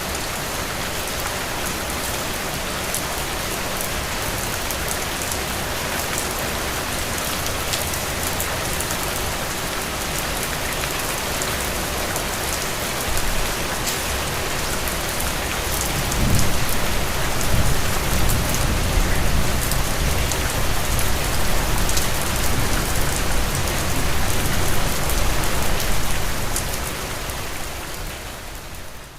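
Steady rain falling and pattering on surfaces. About halfway through, a deep low rumble builds and lasts around ten seconds, and the sound fades near the end.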